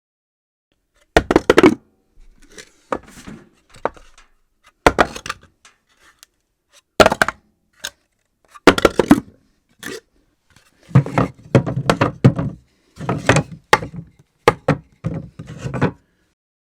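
Objects dropped onto a hard floor again and again at uneven intervals, each a sharp thud or clatter, several bouncing and rattling for a moment after they land.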